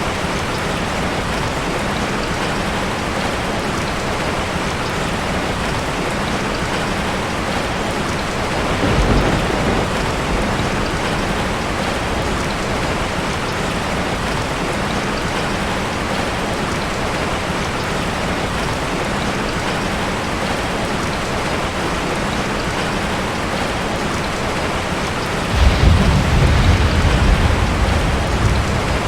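Heavy rain falling steadily on a tin roof. A short rumble of thunder comes about nine seconds in, and a longer, louder rumble near the end.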